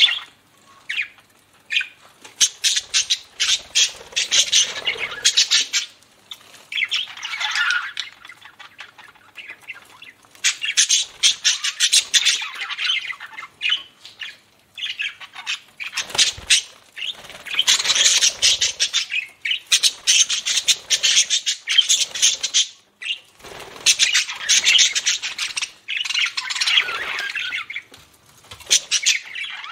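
Budgerigars chattering and warbling: rapid strings of chirps and squawks that come in bouts of a few seconds with short pauses between them.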